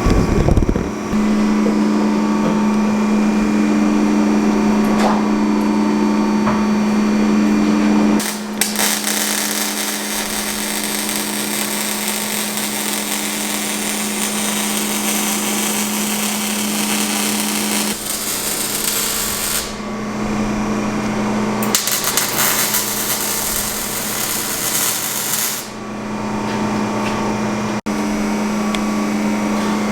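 Exhaust-shop tool work while a new exhaust pipe is fitted: a steady machine hum runs throughout, and for two long stretches a power tool adds a loud hissing, grinding noise, the first about eight seconds in and lasting about eleven seconds, the second shorter.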